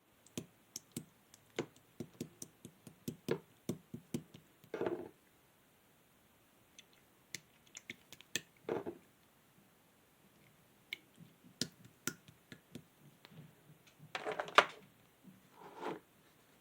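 Sky-blue clear slime being handled and pressed by hand, giving irregular small sharp clicks and pops. A few short squelches come about 5 and 9 seconds in and near the end.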